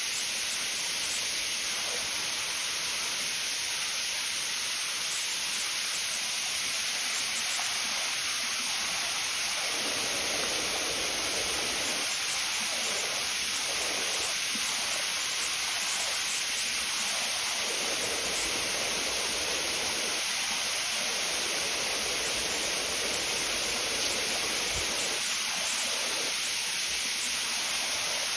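Steady rushing of falling water, an even hiss with a shifting low churn beneath it.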